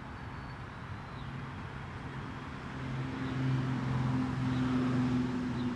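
A steady low engine hum from a motor vehicle, growing louder about halfway through.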